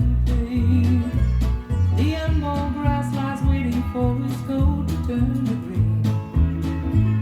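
A recorded song with singing, guitar and a steady bass beat, played back through a vintage Yamaha B-50 amplifier and loudspeakers.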